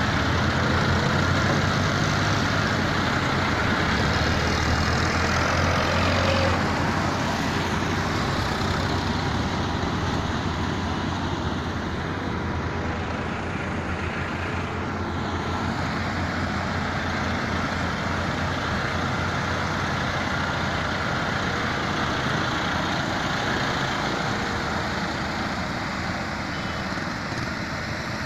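Tractor engine running hard and steadily, its low rumble loudest for the first six seconds or so and easing a little after.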